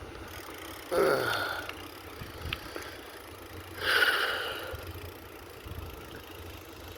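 Steady low rumble of wind and rolling noise while riding a bicycle, broken by two short, loud sounds, one about a second in and one about four seconds in, each fading over about half a second.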